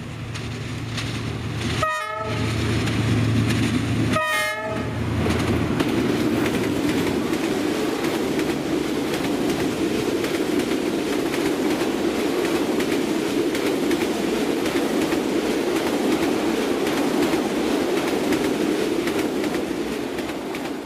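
Diesel locomotive sounding two short horn blasts about two seconds apart as it approaches a level crossing, with its engine hum underneath. Then comes the steady rumble and wheel clatter of passenger coaches rolling past close by.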